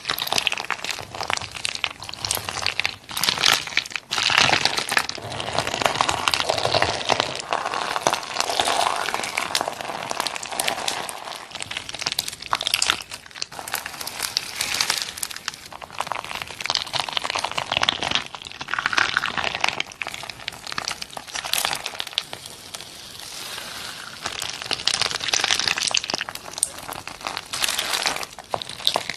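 Slime being squeezed and worked by hand, with dense, continuous crackling and crinkling.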